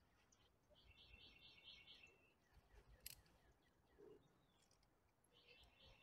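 Faint bird calls: a quick run of evenly spaced high chirping notes about a second in, repeated near the end, over quiet outdoor background. A single faint click about three seconds in.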